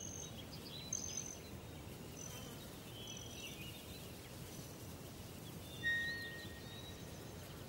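Scattered bird chirps and short whistled notes at different pitches over a steady background hiss, with one longer held whistle near the end.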